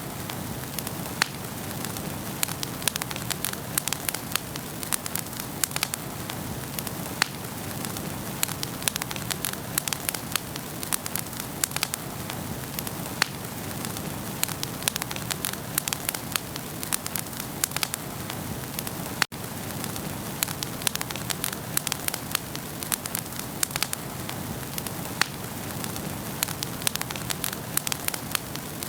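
Wood fire in a fireplace burning with a steady hiss and frequent, irregular sharp crackles and pops. The sound cuts out for an instant about two-thirds of the way through.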